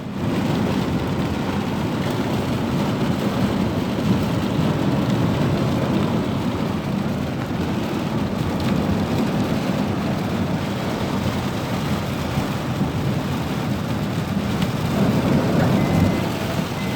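Heavy rain falling steadily, an even hiss with a low rush underneath.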